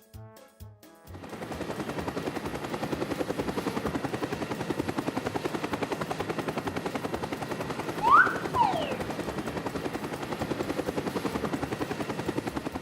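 Cartoon sound effect: a rapid, even chopping pulse, about ten beats a second, starting about a second in, with a short whistle that rises and then falls about eight seconds in.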